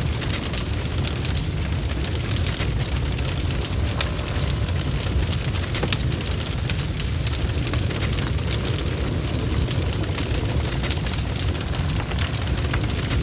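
Wood fire burning with a steady low rumble and frequent sharp crackles and pops of burning wood.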